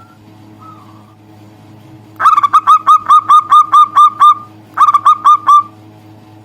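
Zebra dove (perkutut) calling: a faint short coo, then about two seconds in a loud rapid run of about eleven clipped cooing notes, a brief pause, and four or five more.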